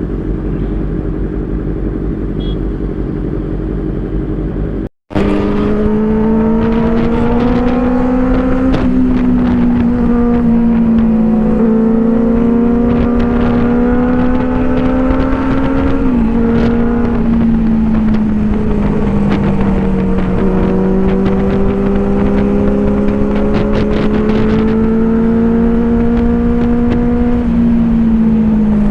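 Superbike engine running at steady road speed. After a sudden break about five seconds in, its note is strong and even, drifting slightly up and down in pitch, with scattered sharp clicks.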